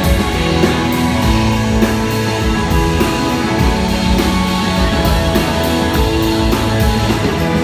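Live rock band playing an instrumental stretch of a song, with guitars and a drum kit keeping a steady beat.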